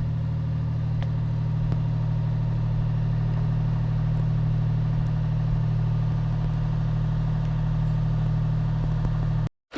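Steel motor cruiser's diesel engine running steadily at low revs, a deep even hum that cuts off abruptly just before the end.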